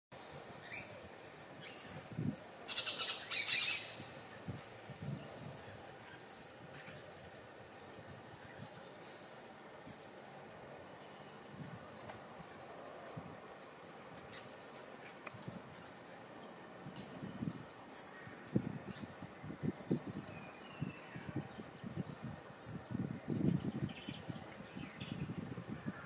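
Forest birds calling: a long series of short, high chirps repeated two to three times a second, with a brief louder flurry of calls about three seconds in. Faint low thumps are scattered through the second half.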